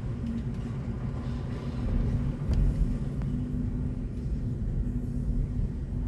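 Road and tyre rumble inside the cabin of a BMW i4 M50 electric car on the move, with a steady low hum and no engine sound. The rumble swells about two seconds in, and a faint very high whistle sounds briefly in the middle.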